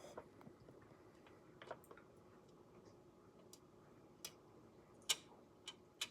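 A handful of light, scattered clicks and taps from a screwdriver and small screws being worked on engine parts, the loudest about five seconds in, over a quiet room.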